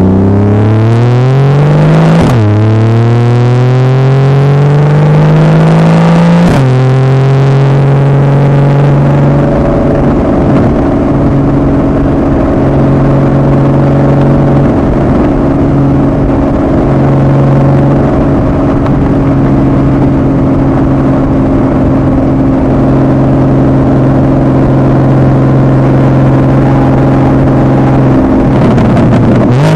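2015 Porsche Boxster 981's 2.7-litre flat-six through a Fabspeed Maxflo aftermarket exhaust. It accelerates with its pitch rising and drops sharply on two quick PDK upshifts in the first seven seconds, then cruises at a steady note until the note falls away near the end.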